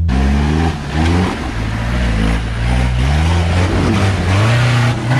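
Off-road 4x4's engine revving up and dropping back several times, with a loud rushing hiss over it.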